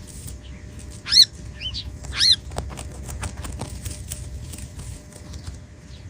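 A bird calling: two loud, short, high calls about a second apart, with a fainter one between them, over a steady low rumble.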